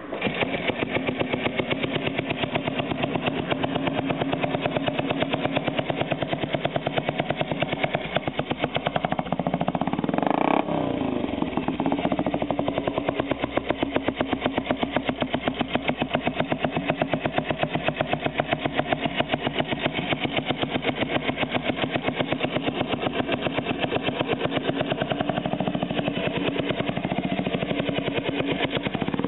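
Junak M10 motorcycle's single-cylinder four-stroke engine starting and idling with an even, rapid pulse. About ten seconds in it is revved once, rising and falling back to idle.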